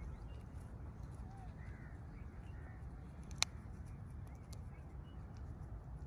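Faint bird chirps and short calls over a steady low wind rumble on the microphone, with one sharp click about three and a half seconds in.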